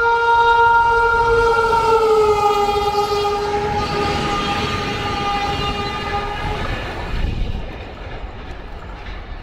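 A train sounds its horn, a held multi-tone chord, as it passes at speed. The chord drops in pitch about two seconds in as the train goes by and cuts off near seven seconds. The rush of the passing train then fades.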